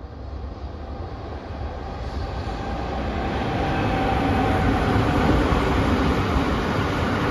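Freight train running past: an electric locomotive followed by car-carrier wagons loaded with vans, a rumble of wheels on rails that grows louder over the first few seconds and then holds steady.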